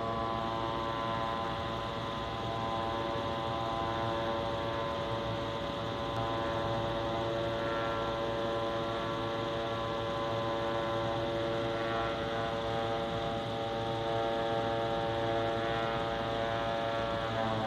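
Steady, many-toned droning hum from the sky, horn-like, holding its pitch; the kind of unexplained sky noise reported in many places in 2014, with no aircraft in sight.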